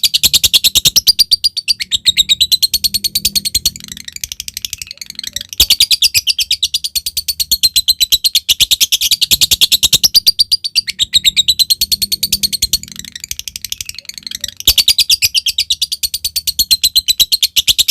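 Lovebird calling in long runs of rapid, evenly pulsed chattering trills (the 'ngekek'), broken twice by softer, looser chirping.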